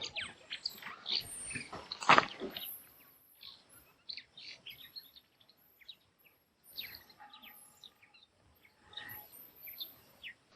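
Birds chirping in short scattered calls, with a louder knock about two seconds in.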